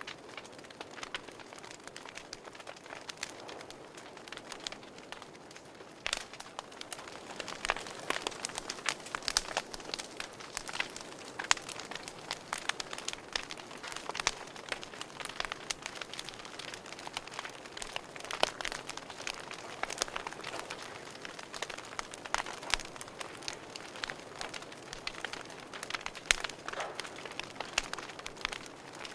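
Burning wood in a fireplace crackling, with irregular sharp pops and snaps over a soft steady hiss; the pops get louder and more frequent from about six seconds in.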